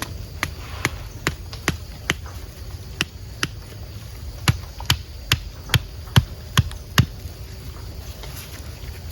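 A series of about fourteen sharp knocks, roughly two a second, from something striking a hard object, louder in the second half and stopping about seven seconds in, over a steady low rumble.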